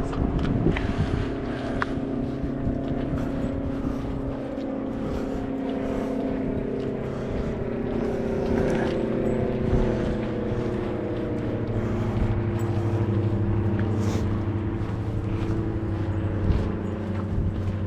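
A motor engine droning steadily, its tones slowly shifting in pitch.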